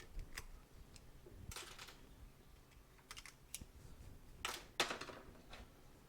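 Scattered light clicks and short scrapes of hand tools being handled against a motorcycle fork leg, a few sharper ones near the middle.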